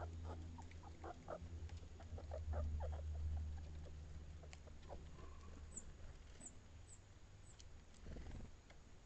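Quick scratchy clicks and crunches of small animals foraging and feeding, densest over the first three seconds, then thinning out. A few faint, very high, short chirps come in about six to eight seconds in.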